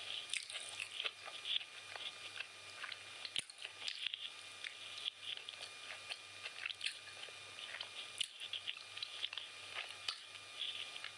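Close-miked chewing of chicken biryani: irregular wet mouth clicks and smacks, many to the second.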